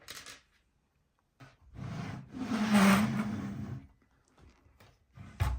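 Handling noise as the plastic Lego model is moved and turned over: a rubbing, scraping sound about two seconds long, then a sharp click near the end.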